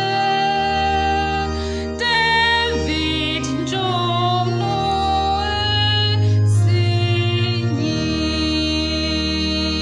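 A woman singing long held notes over a keyboard and bass accompaniment.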